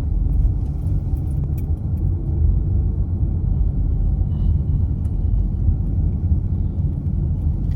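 Steady low rumble of a car in motion, with a few faint ticks.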